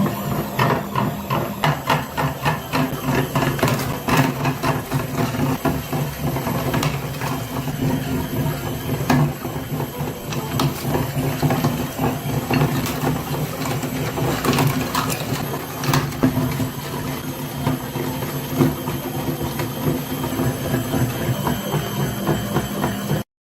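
A small motor running steadily with a low hum and fast, irregular clicking, like a small geared mechanism; it cuts off abruptly near the end.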